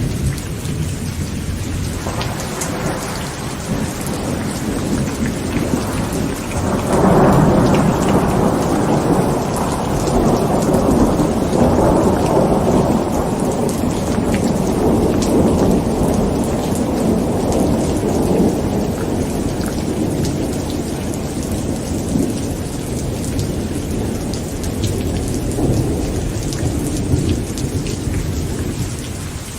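Heavy rain pattering on a tent, with a long roll of thunder that builds about two seconds in, swells loudest about seven seconds in, and slowly rumbles away over the next twenty seconds.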